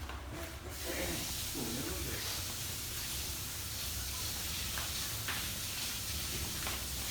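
A steady hiss from cooking on the stove starts about a second in and holds evenly, with a few faint light ticks near the end.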